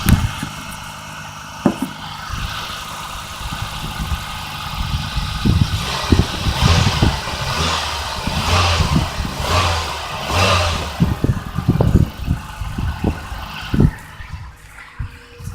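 A 1991 Toyota Corolla's 1.6-litre inline-four running just after a start-up, a steady low hum that swells several times in the middle, with scattered knocks and clatter. It quietens near the end.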